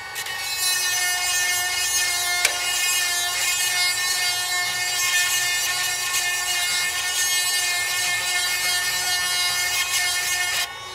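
Small electric chainsaw-chain sharpener running, its grinding wheel grinding a chain tooth: a steady whine over a gritty hiss that cuts off abruptly near the end.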